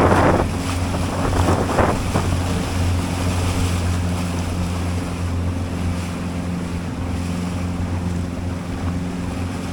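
Small fishing boat's outboard motor running at a steady, even hum as the boat moves through choppy water. Wind buffets the microphone, and water splashes against the hull twice early on.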